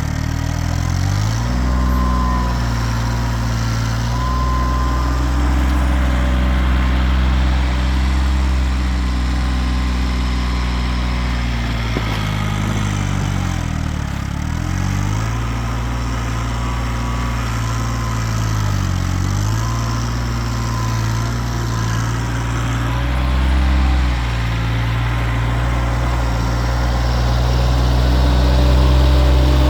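Kioti tractor's diesel engine running steadily for the whole stretch, its note wavering slightly up and down.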